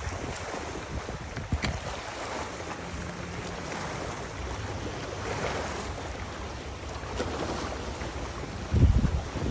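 Wind gusting across the microphone over washing water, swelling and easing, with a short heavy low buffet of wind on the microphone near the end.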